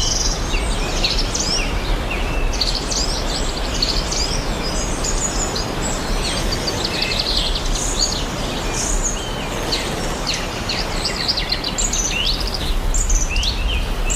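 Many small birds chirping and peeping, short high calls overlapping throughout, over a steady background hiss and low rumble.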